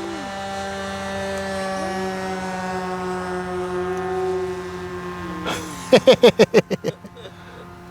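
Electric motor and propeller of a Flex Mamba 10 G2 RC 3D plane in flight, a steady whine whose pitch rises and falls as the throttle changes. Near the end come about eight quick, loud pulses in roughly a second.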